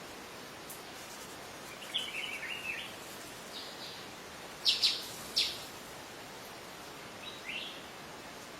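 Wild songbirds calling over a steady background hiss. There is a short chattering run of chirps about two seconds in, then two sharp, loud calls near the middle and a single call near the end.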